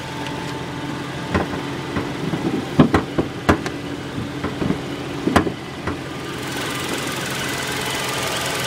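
2011 Kia Sportage's 2.4-litre DOHC 16-valve inline-four idling steadily while the hood is unlatched and raised, with a few sharp clicks and knocks from the latch and hood in the first two-thirds. Near the end the engine sound turns brighter and a little louder as the engine bay opens up.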